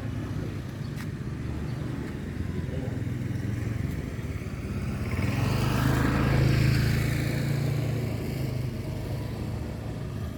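A motor vehicle driving past: its engine hum and road noise grow louder, peak about six to seven seconds in, then fade away.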